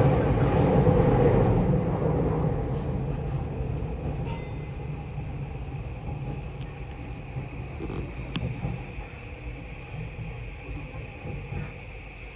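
Tokyu 3020 series electric train running on the line, its low rumble dying down steadily. A thin high whine joins about four seconds in.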